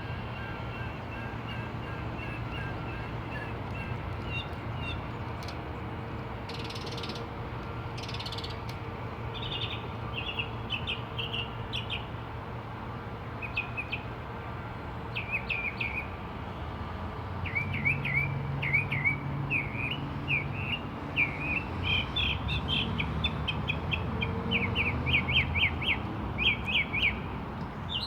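A bird in a tree calling: a varied run of short chirps, trills and slurred notes, starting as an even series of thin notes and becoming rapid and louder in the second half. A steady low rumble runs underneath.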